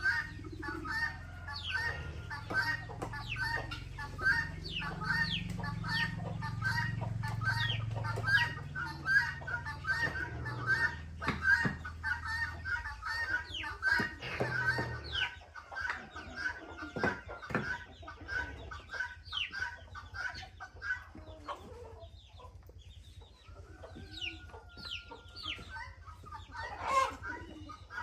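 A flock of chickens clucking steadily, many short calls overlapping, with scattered sharp clicks and knocks. A low rumble runs under the first half and stops about halfway through.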